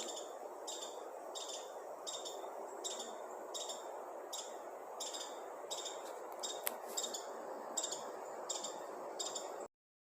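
A single bird chirping over and over, a short falling chirp about three times every two seconds, with a steady background rumble of ambient noise; it cuts off abruptly near the end.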